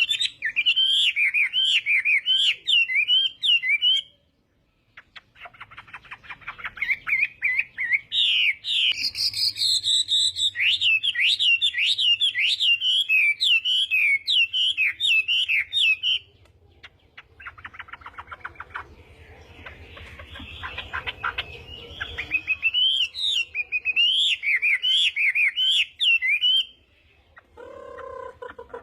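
Chinese hwamei (melodious laughingthrush) singing its loud, fast, varied warbling song in long runs of phrases. It pauses briefly about four seconds in and again for several seconds in the middle.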